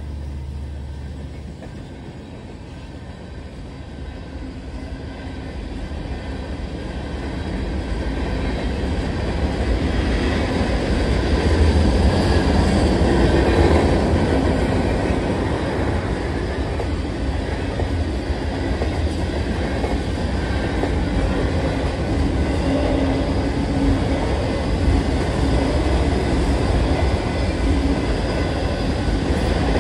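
Freight train cars rolling past through a grade crossing: a steady rumble and clatter of wheels on rail that grows louder over the first dozen seconds and then holds.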